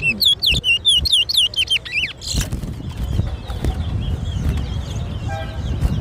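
A caged towa-towa (seed finch) singing a fast run of looping whistled notes for about two seconds, then fainter scattered chirps. It is one of the songs being counted in a bird-whistling contest.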